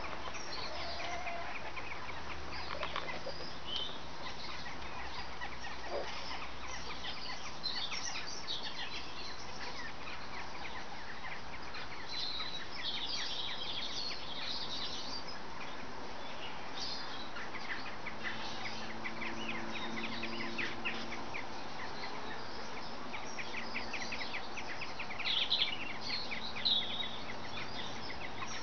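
Birds chirping and calling over and over with short high notes, with a few louder calls near the end and a faint low hum for a few seconds past the middle.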